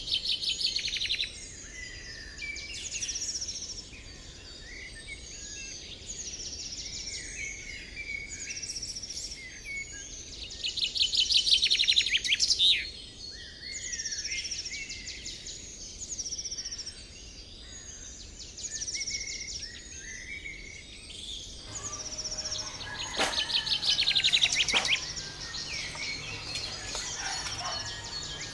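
Small birds chirping and trilling in repeated bursts of quick high chirps, loudest twice, near the middle and again near the end. Two sharp clicks near the end.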